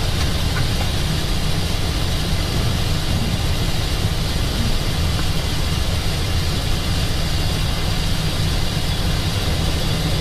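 Steady noise inside an Airbus A320 cockpit in heavy rain: rain beating on the windscreen with the wipers running, over a low, even hum, as the aircraft lines up on the runway.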